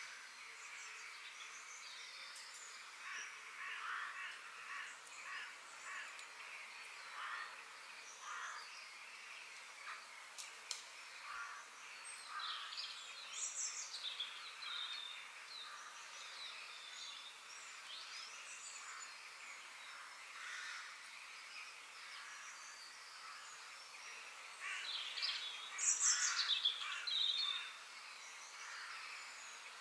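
Forest birds singing and chirping, several calling over one another in short high phrases, over a steady background hiss. The birdsong grows busiest and loudest near the end.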